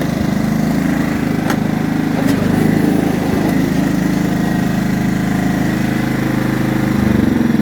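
Small tractor's choke-started gasoline engine running steadily at idle, its note shifting slightly near the end. Two light clicks sound over it early in the stretch.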